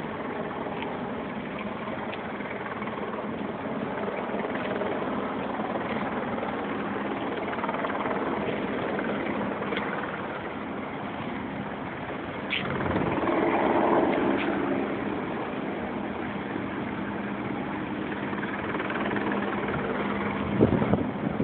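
A steady engine hum over outdoor street noise, swelling louder for a couple of seconds about halfway through, with a few short knocks near the end.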